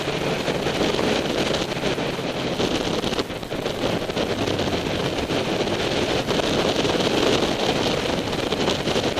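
Wind rushing over the microphone of an onboard camera on a motorcycle at road speed, with the engine's steady drone underneath. The noise dips briefly about three seconds in.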